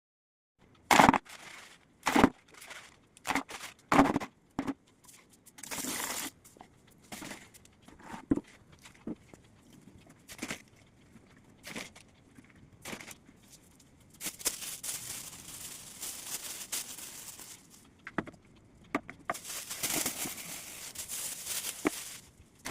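Hands-on handling noises: a series of sharp knocks and clatters, then two longer stretches of scratchy rustling, like soil or a bag being worked.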